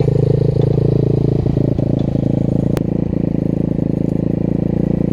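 Small single-cylinder pit bike engine running steadily and loudly, with a brief click near the middle.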